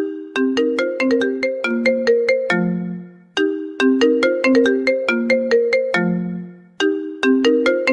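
iPhone ringtone playing. A short melody of quick struck notes repeats about every three and a half seconds, each time ending on a lower note that fades before the phrase starts again.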